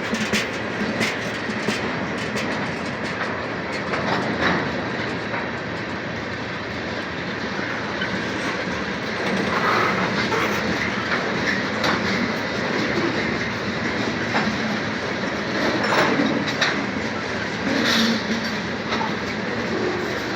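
BNSF freight train rolling past, a steady rumble of steel wheels on rail with irregular clicks and knocks over the rail joints.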